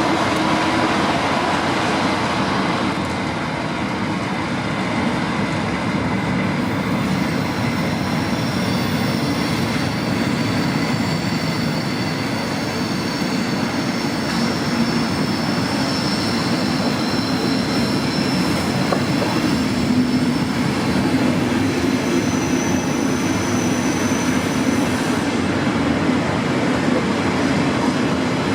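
Regional trains hauled by DB class 112 electric locomotives running past with a steady rolling rumble, and faint high wheel squeal through the middle stretch.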